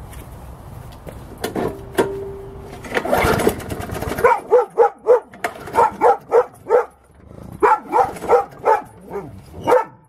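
A dog barking over and over, two or three barks a second, starting about four seconds in. Before the barking there are a few brief scraping noises.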